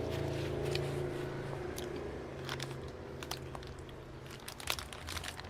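Close-up eating sounds: someone biting and chewing ice cream, with scattered crisp crunches, the sharpest about three-quarters of the way through.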